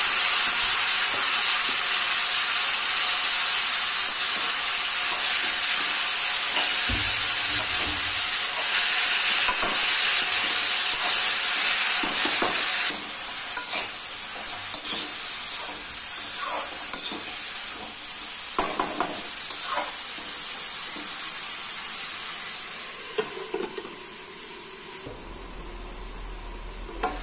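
Diced bottle gourd frying in hot oil in a steel kadhai: a loud continuous sizzle, with a ladle stirring and scraping through the pieces. The sizzle drops noticeably quieter about halfway through, and falls further near the end with the pan covered by its lid.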